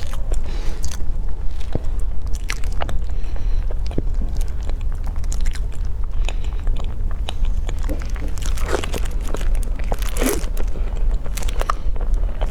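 Close-miked eating: crunchy bites and chewing with irregular sharp clicks, over a steady low hum.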